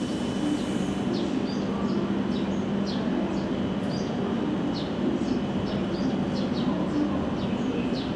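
W7 series Shinkansen train standing or creeping at a station platform, with a steady electrical hum. Short high chirps repeat about twice a second over it.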